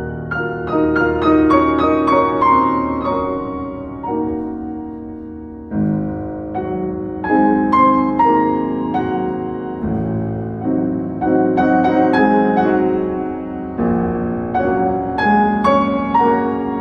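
Solo piano playing flowing phrases of struck notes over low chords, with fresh bass chords coming in about six and ten seconds in.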